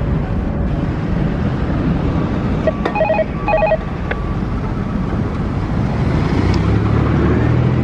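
Two short bursts of dialing-style beeps from a railway radio scanner, each a chord of steady tones, about three seconds in and again half a second later. They play over steady background noise.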